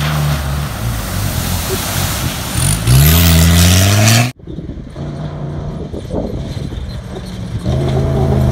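Off-road rally raid vehicles' engines running hard over a loud rushing noise, with an engine revving up about three seconds in. The sound cuts off abruptly a little after four seconds, and another engine takes over, growing louder near the end.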